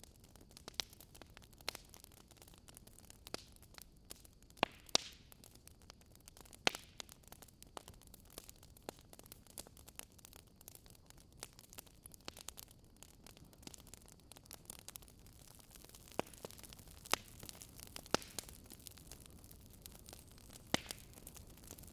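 Wood campfire crackling, with irregular sharp pops, a handful of them louder, over a faint steady hiss.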